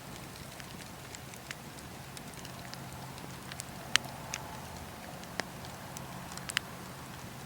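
Wood campfire burning: a steady low rush with scattered crackles and a few sharp pops, the loudest about four seconds in.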